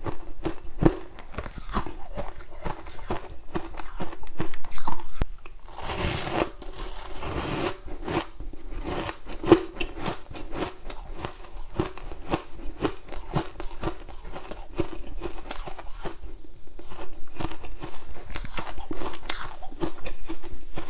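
A person biting and chewing ice: rapid, irregular crunches throughout, with a louder, denser stretch of crunching from about four to eight seconds in.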